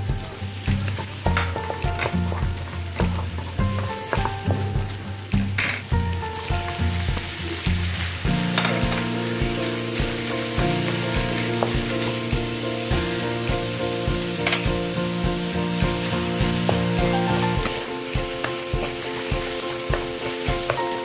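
Chopped onion, garlic and ground beef sizzling in hot oil in a nonstick pan, stirred and scraped with a wooden spatula, over background music.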